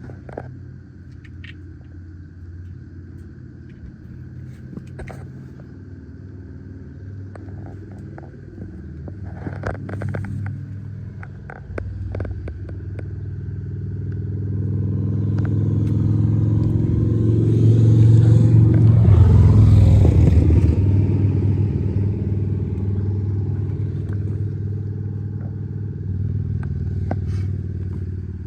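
A 1996 Toyota Tacoma pickup's engine running steadily, with a few sharp clicks partway through. It then swells steadily louder to a peak a little past the middle and eases back down.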